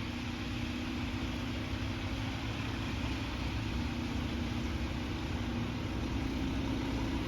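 A vehicle engine idling steadily, with a continuous low hum and no knocks or slams.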